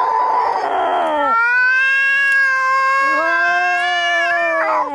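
Angry cats caterwauling. A harsh, raspy yowl gives way to a long, drawn-out yowl, and a second, lower yowl joins it about three seconds in.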